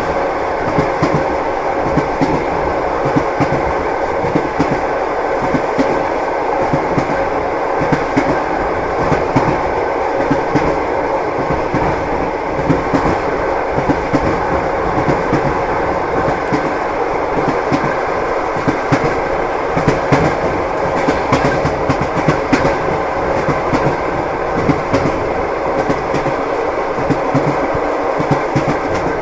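Rhythmic clickety-clack of train wheels over rail joints, with the steady rumble of a moving passenger carriage heard from inside the compartment.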